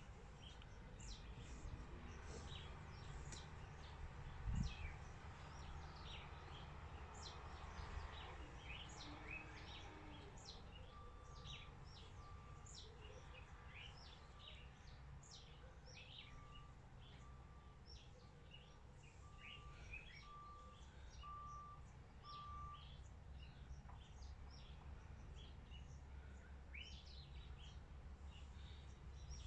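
Faint birdsong: many short chirps, scattered all through. In the middle a run of about a dozen short, evenly spaced notes at one pitch grows louder, and a soft thump comes about four and a half seconds in.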